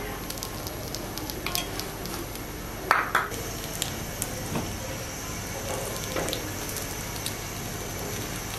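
Stuffed keema paratha frying in oil on a flat iron griddle (tawa), sizzling steadily with scattered small crackles. There is a brief louder clatter about three seconds in, as the paratha is turned.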